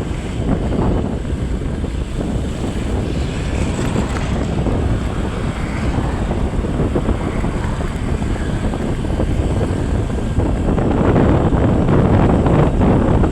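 Wind rushing over the microphone with a vehicle engine running underneath while on the move, growing louder near the end.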